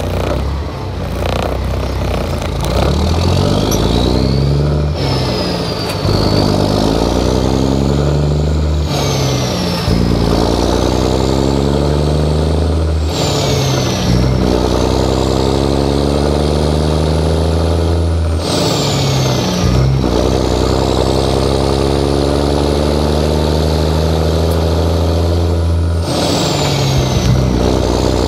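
Straight-piped 11.1-litre Series 60 Detroit diesel in a loaded dump truck, pulling up through the Eaton 13-speed's gears. The revs climb and then drop sharply at each upshift, about six times, and a high whistle rises and falls with them.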